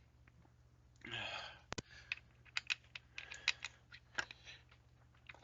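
Light, irregular clicks and taps of hand tools and bolts on a metal engine case, with a sharp pair of clicks just under two seconds in and a denser cluster in the middle.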